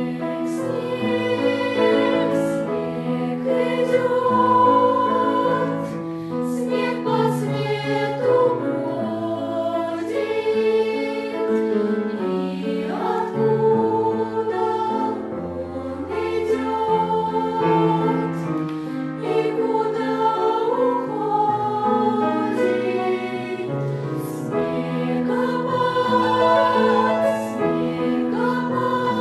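Choir of several voices singing a choral song together in parts, holding long notes.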